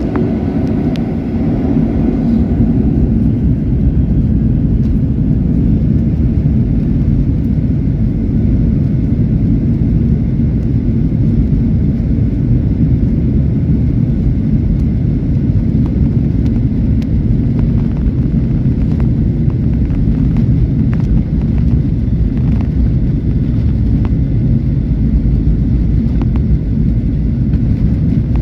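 Boeing 737 jet engines at takeoff thrust, a steady heavy rumble, with scattered light ticks of rain.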